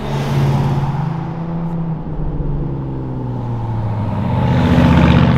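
Sports car engines running as cars drive past on the road, a steady exhaust note that grows to its loudest near the end as a car goes by.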